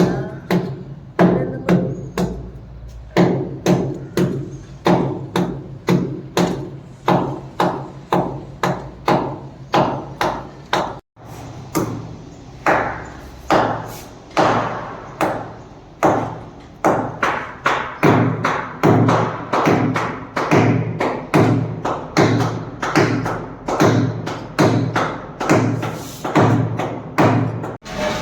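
Hammer blows on ceramic tiles, about one strike a second, each a sharp knock with a short low ring, as balcony tiles are broken up. The blows stop briefly about eleven seconds in.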